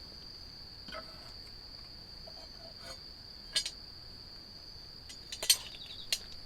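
Crickets singing a steady, continuous high-pitched trill, with a few sharp clicks about halfway through and near the end.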